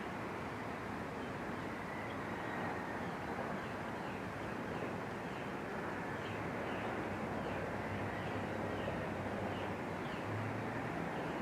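Outdoor field ambience: a steady background rush with a faint, short chirping call repeated about twice a second.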